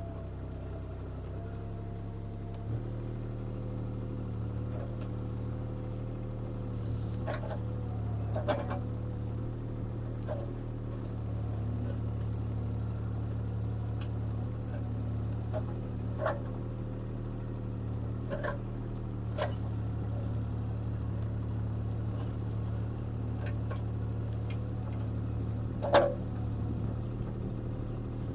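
CAT 303C CR mini excavator's diesel engine running steadily while digging, its note shifting up a little about three seconds in. A scattering of sharp knocks cuts through it, the loudest near the end.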